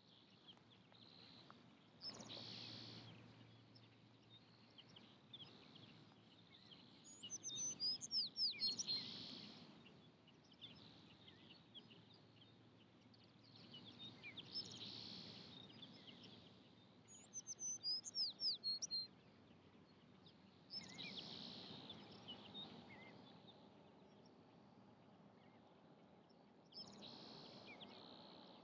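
Faint outdoor ambience with birds calling: two quick runs of sharp, rapidly repeated chirps, about eight and eighteen seconds in. Under them is a low steady hum, with soft swells of noise every few seconds.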